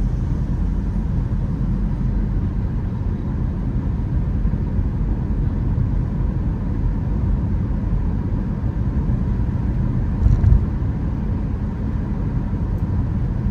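Steady low rumble of car and road noise, with a brief louder swell about ten seconds in.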